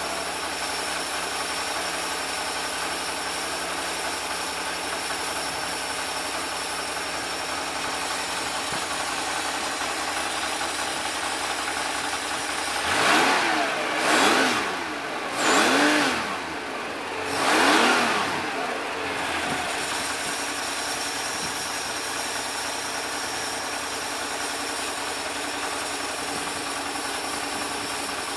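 Freshly rebuilt 1977 Porsche 911 S 2.7 air-cooled flat-six running on a test stand, idling steadily. About halfway through it is revved in four quick throttle blips, each rising and falling back, then it settles to idle again.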